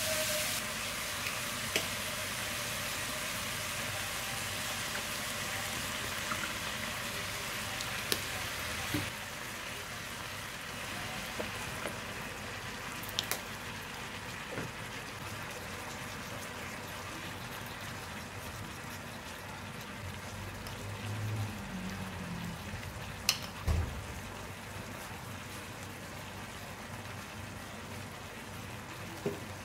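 Sliced vegetables and chicken frying in a hot pan: a steady sizzling hiss that eases slightly about a third of the way in, with a few sharp clicks scattered through it.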